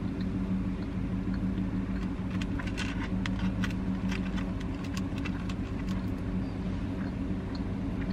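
Steady low hum of an idling car engine, with chewing and a scatter of small clicks in the middle as a hand takes food from a cardboard box.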